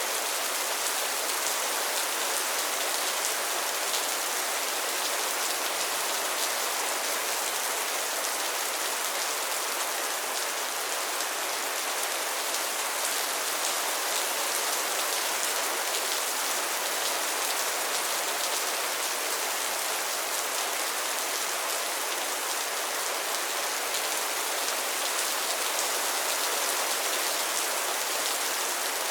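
Steady rain falling on pond water and lily pads: an even, dense patter of many small drops with little low end.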